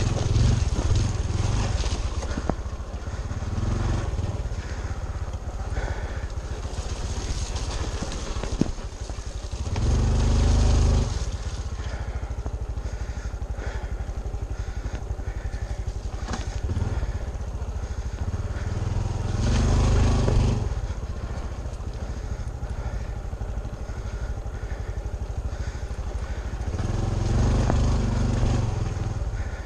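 Honda CT125 Trail 125's single-cylinder air-cooled engine running under way, getting louder in three short surges of throttle, about ten, twenty and twenty-eight seconds in.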